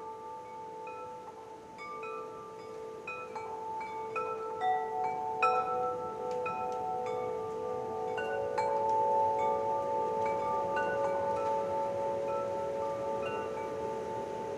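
Wind chimes ringing: many struck tones at irregular moments, each ringing on and overlapping the others, over a faint steady hiss. They grow louder over the first several seconds, then hold.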